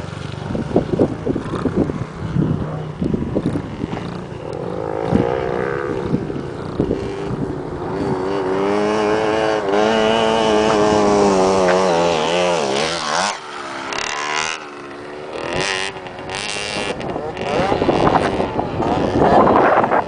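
Motocross dirt bike engines on the track. One bike grows louder with its revs rising and falling as it rides past, then fades. A second bike briefly sweeps by after it.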